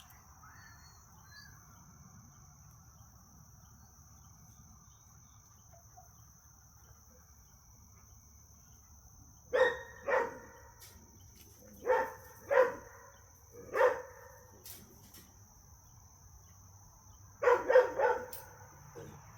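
A dog barking: five short barks spread over about four seconds past the middle, then a quick run of several barks near the end. A steady high insect drone runs underneath.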